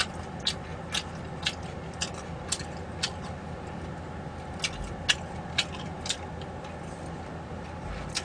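Mouth sounds of someone chewing food: sharp wet smacks about twice a second, with a short pause partway through, over a steady low hum.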